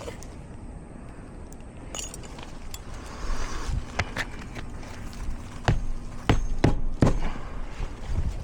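Hammer driving roofing nails back into an asphalt shingle: about seven sharp, irregular knocks starting about four seconds in, after some scuffing and rustling on the roof.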